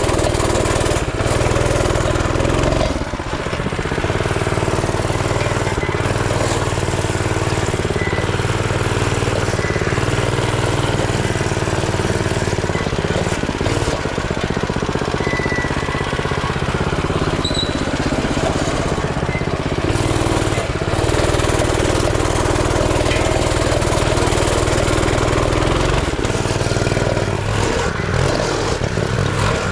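Coleman CT200U mini bike's small single-cylinder four-stroke engine running while being ridden, its note shifting several times as the throttle is opened and eased off, with a brief dip about three seconds in.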